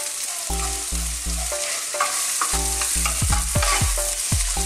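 Aromatics and yellow curry paste sizzling steadily in hot oil in a frying pan while a wooden spoon stirs them.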